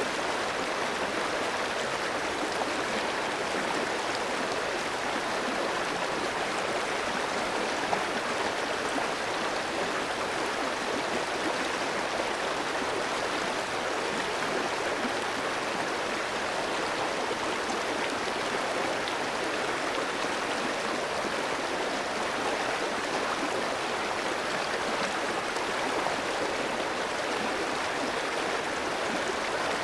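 Clear mountain stream flowing over rocks: a steady, even rush of running water.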